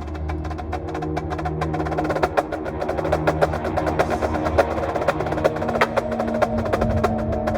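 High school drumline playing: dense, rapid stick strokes on the drums over held low pitched notes.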